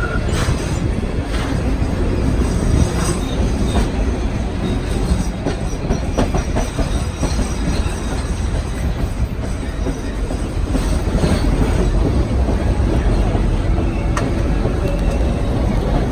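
Passenger train rolling along the track, heard from aboard: a steady low rumble with scattered clicks and knocks of the wheels on the rails.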